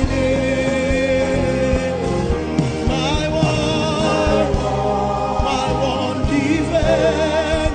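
Gospel worship singing: held notes with vibrato over steady instrumental accompaniment.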